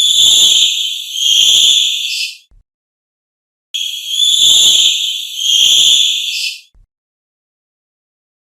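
Bonobo calls: a high-pitched burst about two and a half seconds long, then the same burst again after a short gap.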